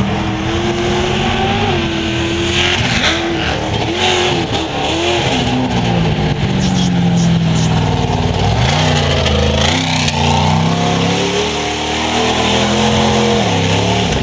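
Monster truck engine running loud and revving up and down over and over, its pitch surging and dropping in quick swings.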